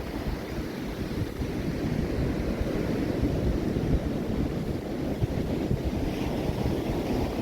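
Ocean surf washing onto a beach, a steady rush of wave noise, with a low rumble from wind on the microphone.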